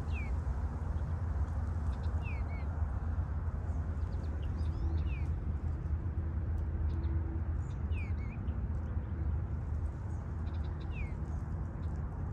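Bluebird calling: short, high notes that slide downward, repeated every two to three seconds, over a steady low rumble.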